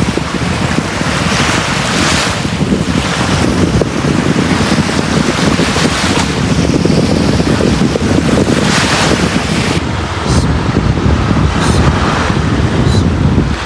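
Sea waves breaking and washing on a beach, surging every couple of seconds over a continuous wash, with low wind rumble on the microphone.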